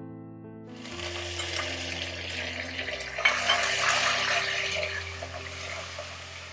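Curry leaves and green chillies sizzling in hot oil with whole spices, the sizzle starting about a second in as they hit the oil and growing louder midway. A metal spatula scrapes and taps against the pot as it is stirred.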